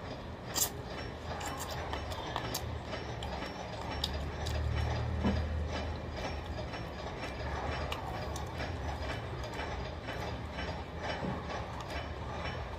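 Close-up crunching and chewing of crispy fried food, irregular crackling clicks, over a steady low hum.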